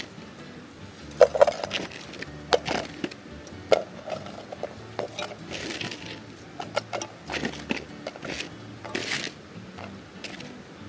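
Irregular knocks, cracks and clatter of things being handled, over quiet background music.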